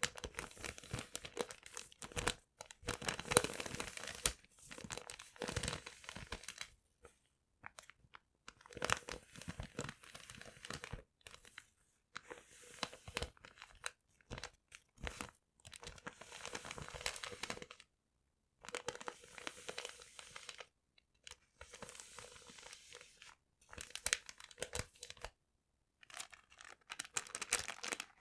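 Paper being crumpled and torn close to the microphone: bursts of dense crackling a second or few long, broken by short pauses.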